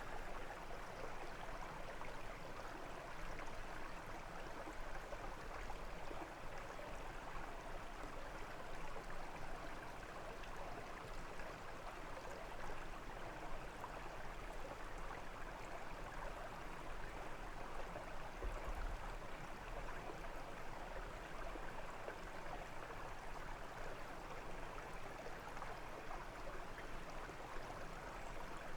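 Water of a small brook flowing and burbling steadily over its bed.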